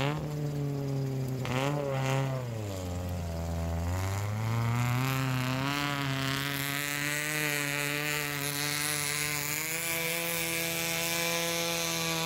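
Suzuki Sidekick's four-cylinder engine revving hard under load off-road. The revs sag about three seconds in, then climb again and hold high and steady.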